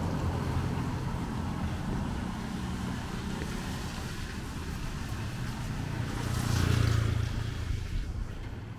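Street traffic: a motor vehicle's engine hums low and steady, fading slowly, then a vehicle passes close about six to seven seconds in, its noise swelling and then dying away.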